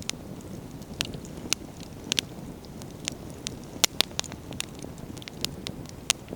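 Wood campfire crackling: a dozen or so irregular sharp pops of burning firewood, the loudest near the middle, over a low steady rumble.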